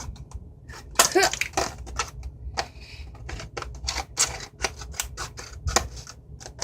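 Scissors snipping open a small plastic packet: a run of sharp, irregular clicks and crinkles, with a short vocal sound about a second in.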